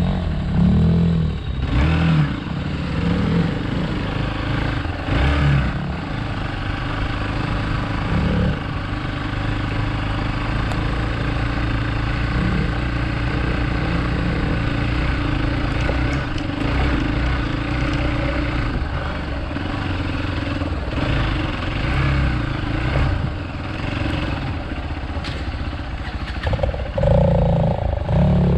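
Hero Xpulse 200 motorcycle's single-cylinder engine running while ridden off road through sand and mud. The throttle rises and falls, with louder surges in the first few seconds and near the end.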